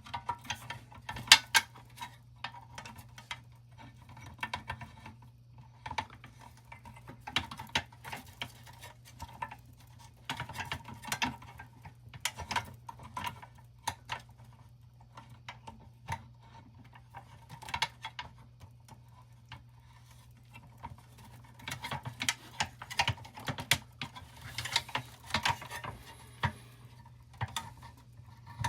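Irregular light clicks, taps and small scrapes of a pressed-steel toy truck and small hand tools being handled and worked during reassembly. A steady low hum runs underneath.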